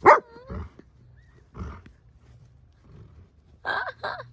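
Pet dog barking: one loud bark with a falling tail at the start, a couple of lower, rough sounds after it, then two quick barks near the end.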